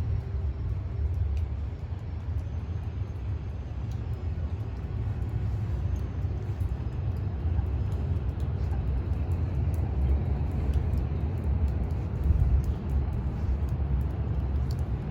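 Outdoor city background noise: a steady low rumble with faint scattered ticks, with no one speaking.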